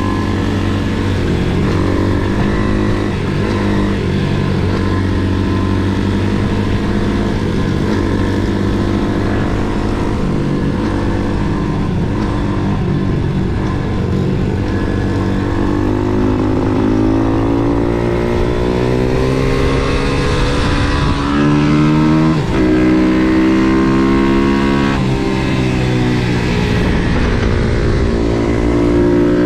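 MRF 140 SM pit bike's single-cylinder four-stroke engine heard onboard at speed on a track. Its revs rise and fall with the throttle. In the second half the pitch repeatedly climbs and then drops sharply several times.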